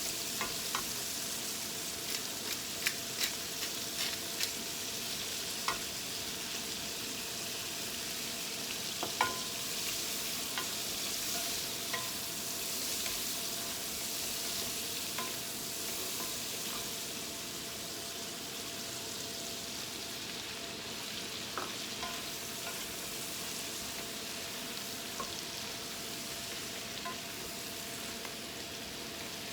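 Food sizzling steadily as it fries in a pan, being stirred, with scattered sharp clicks of the utensil against the pan, mostly in the first ten seconds or so.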